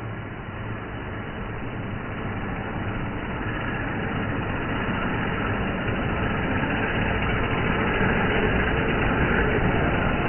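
Train approaching with its engine running and rumbling, growing steadily louder.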